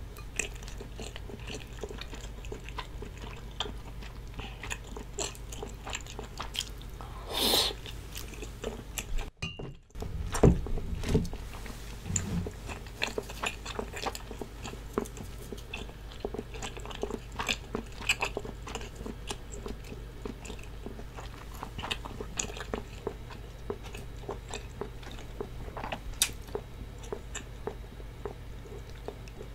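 Close-miked chewing and wet mouth clicks of someone eating cheese tteokbokki and noodles, with a louder slurp-like swish about seven seconds in. Near the middle the sound cuts out for about half a second, followed by a few low thumps.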